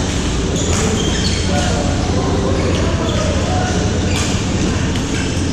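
Steady, loud background din with a low hum and faint distant voices, broken by a few sharp knocks, the clearest about four seconds in.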